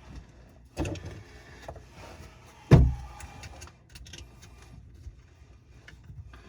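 Hand work with tools and parts: light metallic clinks and rattles, with two heavier knocks, about a second in and a little before the middle, the second the louder.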